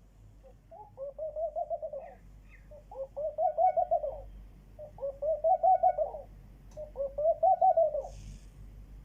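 A dove cooing: four quavering, bubbling phrases, each a little over a second long, repeated about every two seconds.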